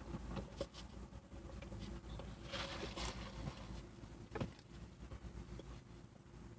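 Someone sipping a soft drink from a fast-food cup: faint sips and small handling noises from the cup and lid, with a short noisy sip or rattle about two and a half seconds in and a sharper click a little after four seconds.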